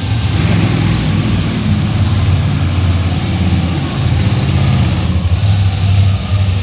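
Monster truck engine running loud in the arena, its pitch rising and falling as it revs, with a brief dip about four seconds in.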